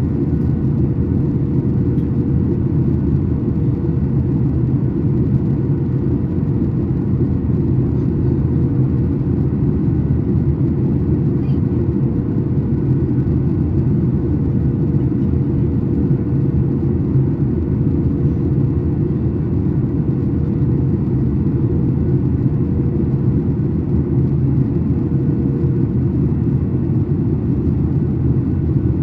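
Steady cabin drone of a Boeing 737 MAX 8 airliner with its CFM LEAP-1B engines running: deep, even engine and airflow rumble with a faint steady hum above it.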